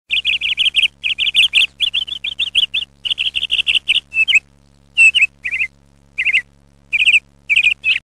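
A bird chirping in fast runs of short, high chirps, about ten a second, with pauses of half a second to a second between runs. A steady low hum runs underneath.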